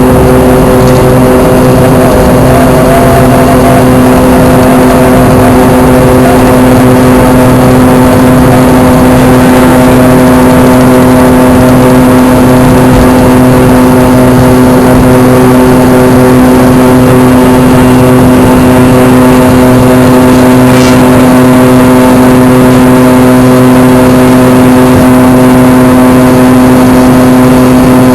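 Fokker 100's rear-mounted Rolls-Royce Tay turbofans heard from inside the cabin: a steady, loud jet drone with several constant whining tones over a rushing noise. A faint click about twenty seconds in.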